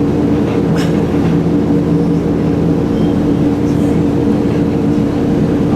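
Echizen Railway electric railcar running, a steady loud hum with several constant low tones over an even rumble.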